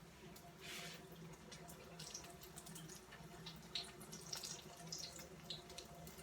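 Jamaican fried dumplings frying in shallow oil: a faint sizzle with scattered small pops and crackles.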